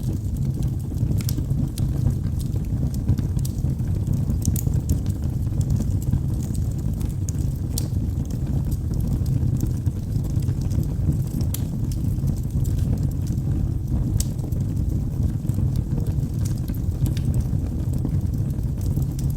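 Logs burning in a wood fireplace: a steady low rumble of flame with scattered sharp crackles and pops from the wood every second or two.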